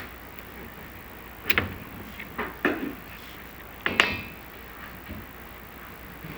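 Inspection camera head scraping and knocking against the clay flue tile as it is lowered down the chimney. There are a few short scrapes, and the strongest comes about four seconds in, over a faint steady hiss.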